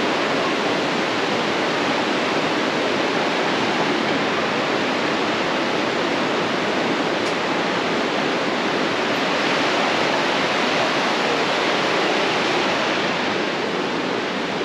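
Intermodal freight train cars, carrying highway trailers on flatcars, rolling past at close range: a steady rushing of steel wheels on the rails with no breaks or clacks.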